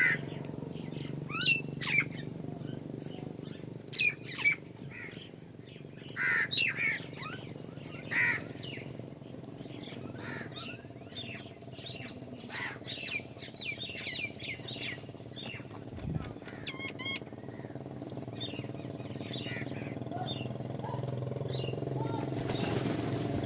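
Many small birds chirping and squawking in quick, overlapping calls, over a steady low hum, with a rush of noise rising near the end.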